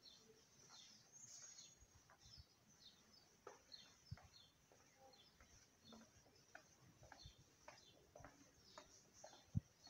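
Faint bird chirping outdoors: many short, high chirps scattered through, with a few soft low thumps, the loudest near the end.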